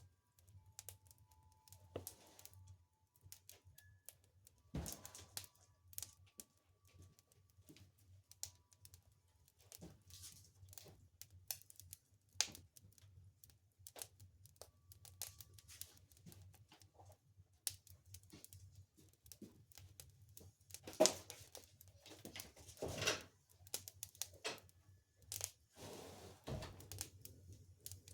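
Fire crackling: irregular sharp pops and snaps, denser and louder about three-quarters of the way in, over a faint steady low hum.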